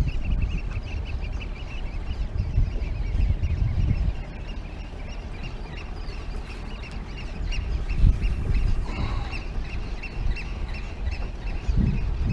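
Birds calling in quick, evenly repeated high chirps, about four or five a second, over a steady low rumble.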